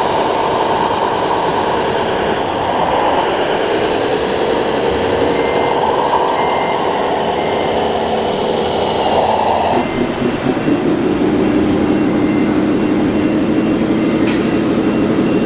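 1/14-scale radio-controlled hydraulic construction machines running: a steady whine of their motors and hydraulic pumps that shifts in pitch, changing abruptly about ten seconds in. Faint short repeated beeps sound through the second half, like a reversing alarm.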